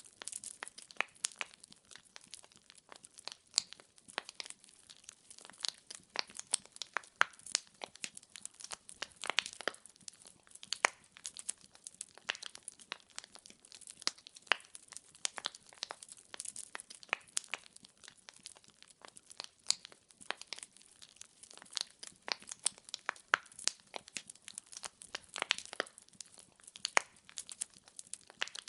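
Burning firewood crackling: a dense, irregular run of sharp snaps and pops, some louder than others, over a faint hiss.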